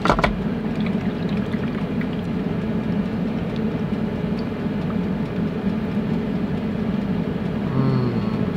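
Small countertop air fryer running while it cooks, its fan giving a steady whir, with a few light clicks of handling over it.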